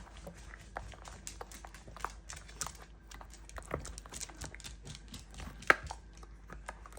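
Puppy chewing and mouthing an Easter egg: scattered irregular clicks and taps from teeth on the egg, with one sharper click near the end.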